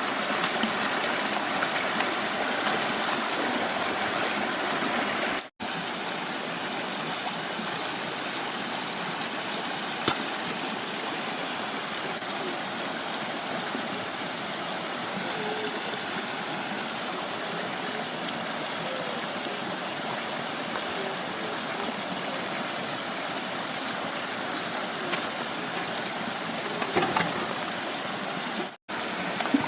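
Stream water flowing steadily, cut off twice by brief dropouts, with a few light knocks near the end.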